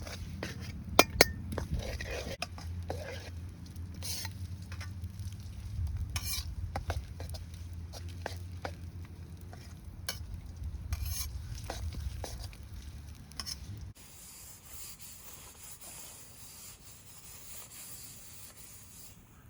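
Sizzling in a Yamada Kogyosho iron wok being stirred over a campfire, with a metal spatula clicking and scraping against the pan many times. About fourteen seconds in, the sound cuts to a quieter, steady hiss.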